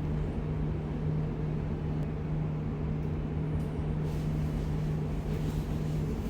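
A vehicle running steadily, heard from on board: an even low rumble with a constant low hum throughout.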